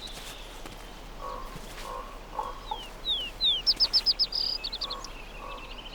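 Birds calling in natural ambience: soft, repeated low clucking notes, three quick descending whistles about three seconds in, then a rapid run of high chirps.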